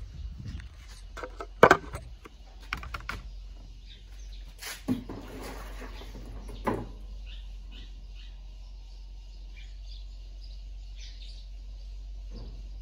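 Sharp knocks and clatter of parts being handled, the loudest about a second and a half in, with a scrape around the middle. After that, faint bird chirps over a low hum.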